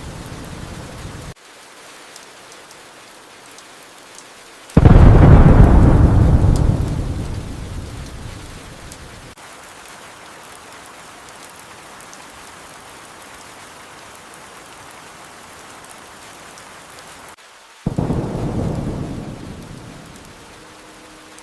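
Steady rain with thunder: a loud thunderclap about five seconds in that rumbles away over several seconds, and a weaker clap near the end that fades more quickly. A low rumble from earlier thunder cuts off about a second in.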